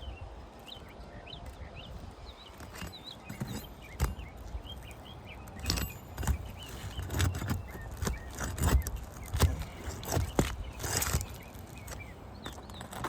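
Irregular knocks, taps and scrapes as an asphalt roof shingle is worked loose to get at its nails, with one longer scraping rasp about eleven seconds in. Small birds chirp in the background.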